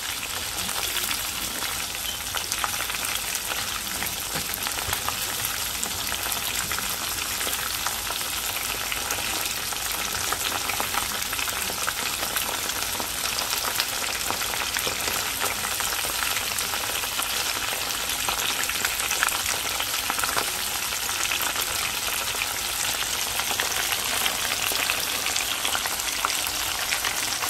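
Coated chicken strips deep-frying in a pan of hot oil: a steady sizzle full of fine crackling and popping bubbles.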